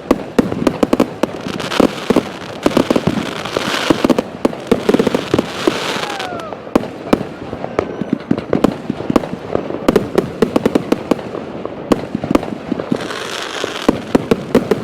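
Fireworks going off in quick succession: many sharp bangs and pops with stretches of hissing crackle.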